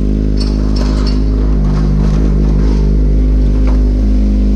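Motorcycle engine running steadily on the move, with a low rumble and a constant pitch. Three short high chirps come about half a second in.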